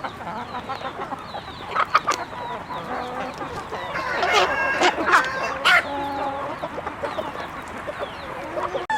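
A flock of chickens clucking and chirping, with several louder calls in the middle.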